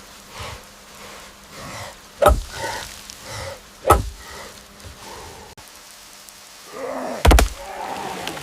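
Heavy thumps: one about two seconds in, another about four seconds in, and a quick double near the end.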